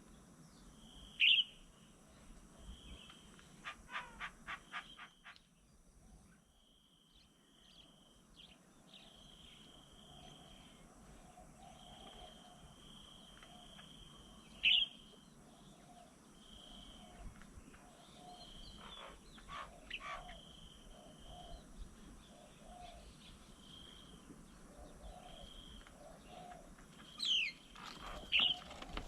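Several birds calling outdoors: sharp, short falling calls stand out about a second in, midway and twice near the end, with a quick run of calls about four seconds in, over a high trill that repeats in stretches of about a second.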